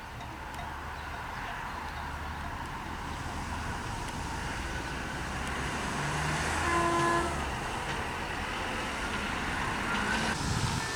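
Diesel railcar set (SA137 units) running on the line with a steady low engine rumble that slowly grows louder. A short tone sounds about seven seconds in.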